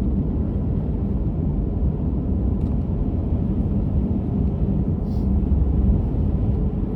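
Steady low road and tyre rumble of a car driving along, heard from inside the cabin.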